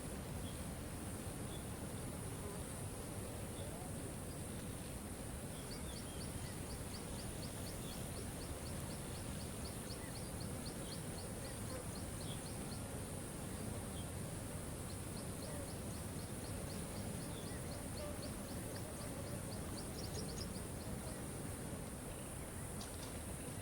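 Waterfall running steadily, overlaid by a steady high hiss. A high, fast ticking trill of about four notes a second comes in two long runs, one a few seconds in and one past the middle, with scattered short chirps throughout.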